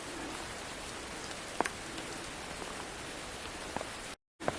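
Steady patter of water dripping from the trees onto the wet forest floor and foliage, with a few louder single drips. The sound cuts out briefly near the end.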